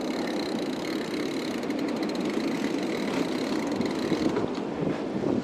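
Steady wind noise buffeting the action camera's microphone during a fat bike ride through blizzard snow, with a faint thin high whine that stops about four seconds in.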